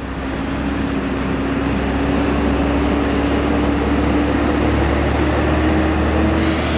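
Bus engine running as the coach manoeuvres, a steady engine note that slowly rises in pitch while the sound grows louder.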